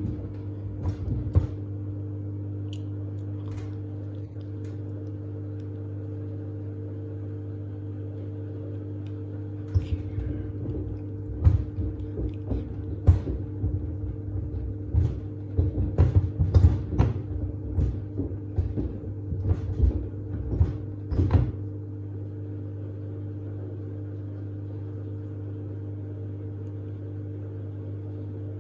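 Samsung WD70T4047CE front-loading washing machine running a wash with sneakers in the drum. There is a steady motor hum throughout. From about a third of the way in to about three quarters, the tumbling sneakers knock irregularly in the drum, and a few knocks also come near the start.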